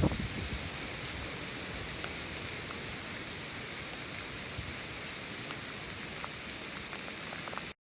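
Steady, even hiss of rushing water in a typhoon rainstorm, heavy rain or swollen floodwater, with no wind gusts on the microphone. It cuts off suddenly at the very end.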